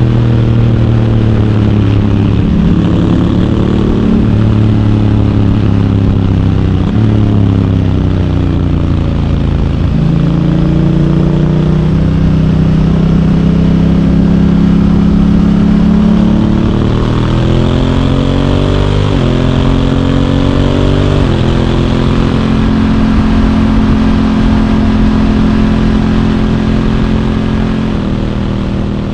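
Honda Africa Twin's parallel-twin engine under way, pulling up in pitch and dropping abruptly several times as the DCT dual-clutch gearbox changes gear, then holding a steadier cruise. Wind and road noise run underneath throughout.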